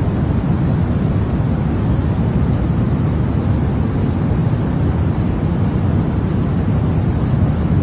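Continuous sleep-aid noise of the kind sold as white noise for babies: an even, unchanging hiss weighted toward the low end, so it sounds deep and rumbling rather than bright.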